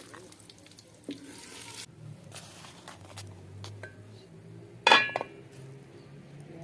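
Food sizzling in a pan for the first two seconds, then a few light clinks of metal utensils. About five seconds in comes one loud clang of metal cookware, ringing briefly.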